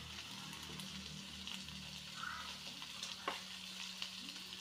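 Chopped vegetables and cooked chicken frying in hot oil in a wide metal pan: a steady faint sizzle, with a brief scrape of the spatula a little past three seconds as the mixture is pushed aside.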